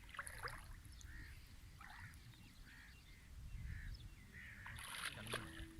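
Faint bird calls: short, repeated chirps about every half second to second, over a low rumble, with a few sharp clicks.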